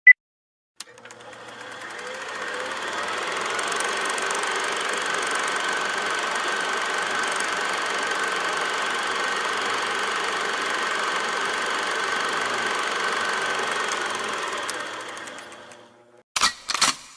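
A single high beep, then a steady machine-like running noise, like a motor, with one steady whine in it. It fades in over a few seconds, holds level, and fades out near the end, followed by a few short sharp sounds.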